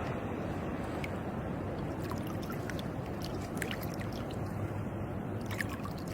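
Seawater sloshing and trickling, with scattered small drips and splashes over a steady low rush.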